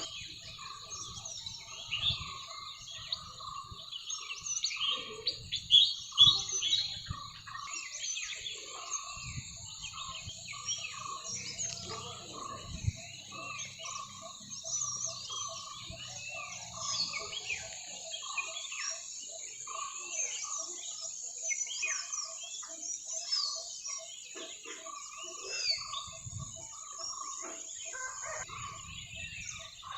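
Dawn chorus: many birds chirping and calling at once, with one call repeating steadily underneath.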